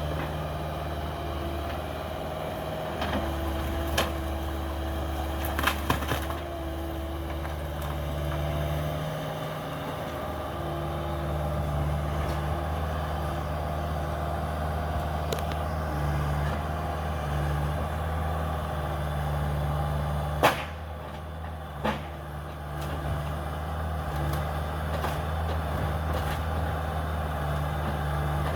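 Cat 305 mini excavator's diesel engine running steadily under work, with a few sharp knocks and cracks of demolition debris, the loudest about two-thirds of the way through.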